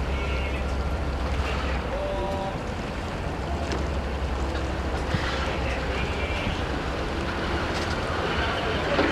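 Tour cruise boat's engine running with a steady low rumble as the boat comes alongside the pier to dock, over a wash of water and wind noise. The rumble eases off about two seconds in.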